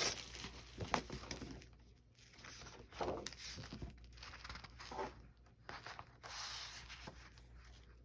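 Intermittent rustling and crinkling of paper as old paper doll books are handled and leafed through, with a sharp click about a second in.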